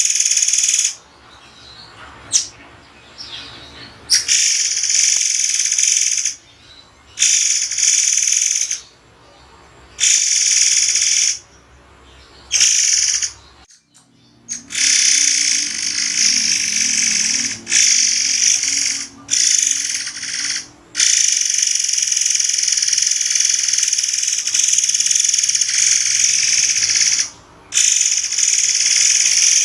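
Murai air bird giving sharp, shrill, high-pitched calls in bursts of one to several seconds, broken by short pauses, with one long unbroken run near the end.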